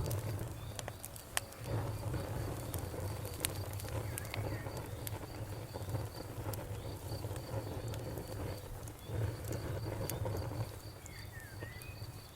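Campfire burning, with irregular sharp crackles and pops over a low rumble of the flames. A faint insect chirps in a steady rapid pulse behind it.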